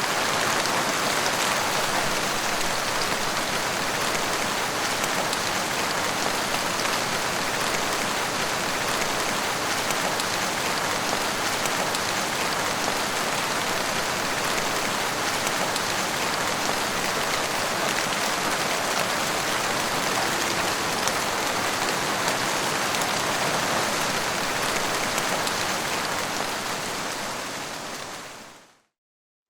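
Rain falling steadily as a dense, even hiss of drops, fading out near the end.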